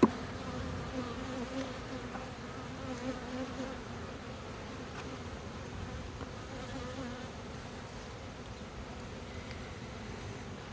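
Honeybees from an opened hive buzzing as a steady, even hum. A single sharp click sounds right at the start.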